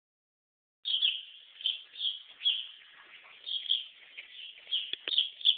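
Birds chirping in a quick, irregular run of short high calls, starting suddenly just under a second in. A single sharp knock about five seconds in.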